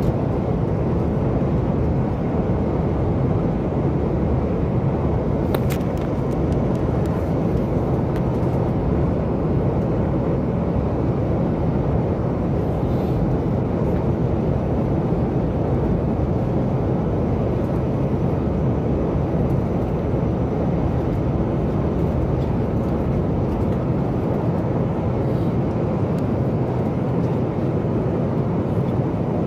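Steady cabin noise inside a Boeing 737 MAX 8 in flight: an even rush of airflow and engine noise, with one faint click about six seconds in.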